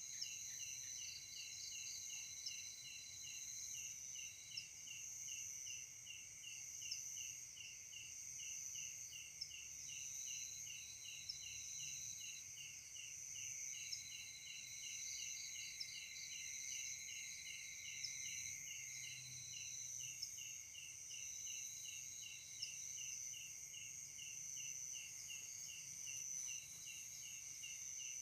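Night insect chorus: crickets and other insects singing, with a steady high buzzing and one regular chirp repeating about two to three times a second, and other trills coming and going.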